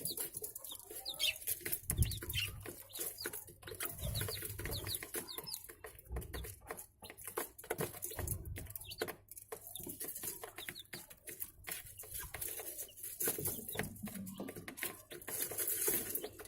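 Budgerigars chirping and chattering, many short high chirps mixed with sharp clicks.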